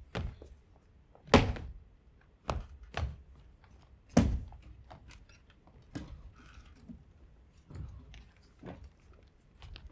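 An irregular series of about ten knocks and thumps on the stage, the two loudest about a second and a half and four seconds in.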